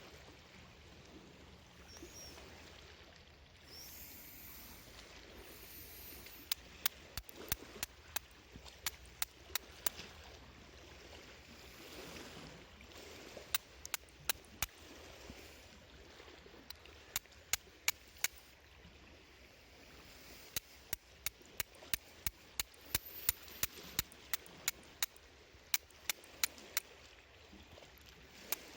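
Small wood campfire crackling, with sharp irregular pops from about six seconds in, over a steady wash of water sound.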